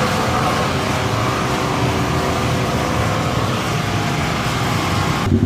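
Kawasaki Z1000R inline-four running steadily through its newly fitted aftermarket muffler. Near the end the sound changes abruptly to a lower, pulsing note with less hiss.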